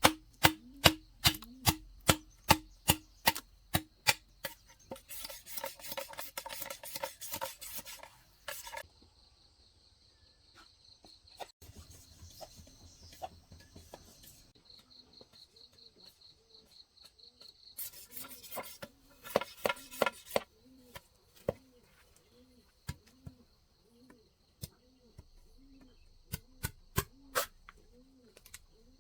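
Bamboo being chopped with a blade in runs of sharp strokes, about two to three a second, broken by two spells of quick rasping strokes lasting a few seconds each.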